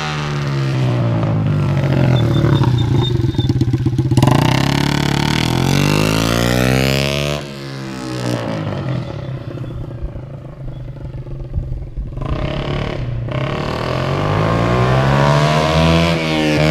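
Small motorcycle engine accelerating through the gears. Its pitch rises and drops back several times, and it goes quieter for a few seconds in the middle.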